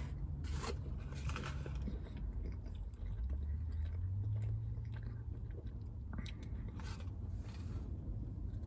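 A person biting into and chewing a grilled chicken sandwich close to the microphone: short wet clicks and mouth noises come at irregular moments over a low steady hum.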